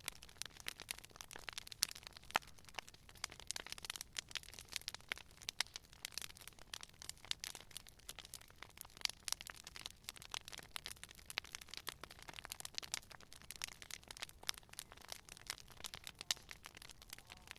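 Wood fire crackling and popping: many irregular sharp snaps over a soft low rumble of burning.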